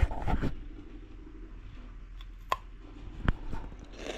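Eating and handling noises while tasting cheesecake: a short noisy scrape at the start, then two sharp clicks a little under a second apart.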